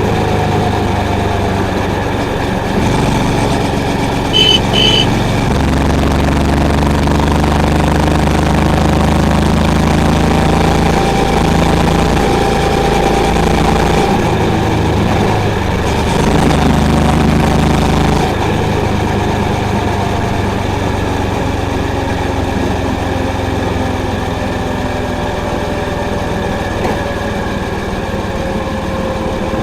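Honda CB350's air-cooled single-cylinder engine running under way, its exhaust note shifting a few times as the throttle changes. Two short high beeps sound about four and a half seconds in.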